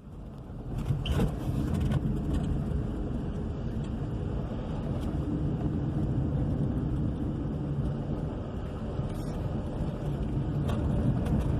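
A vehicle's engine running steadily, a continuous low rumble with a few faint knocks.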